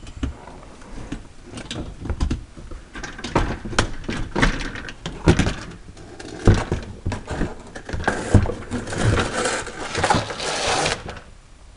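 Irregular knocks, clicks and scraping of a plastic under-engine shield being handled and pulled away from the car, with a longer rough scraping rustle near the end.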